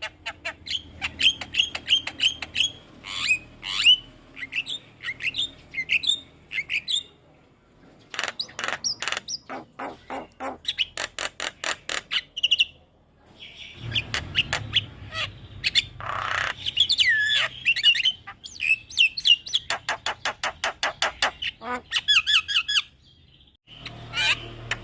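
Javan myna singing a busy, varied song: rapid trains of harsh clicks and squawks mixed with short, upward-curving whistled notes. There are brief pauses about a third of the way in, about halfway, and near the end.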